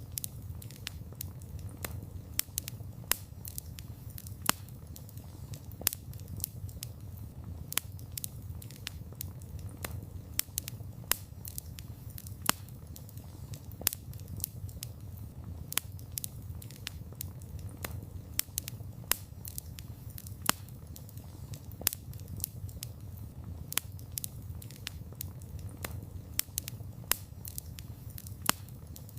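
Wood fire burning with a steady low rumble and frequent sharp, irregular crackles and pops of burning wood.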